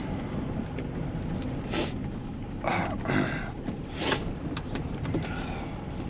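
Steady low rumble of a running vehicle, with several brief scuffing noises and a couple of sharp clicks in the middle.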